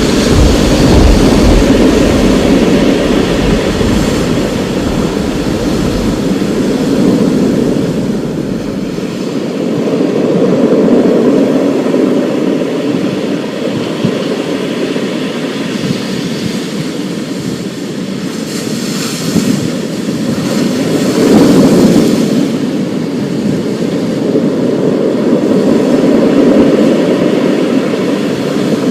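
Thunderstorm: rain falling under long, rolling thunder that swells and fades several times.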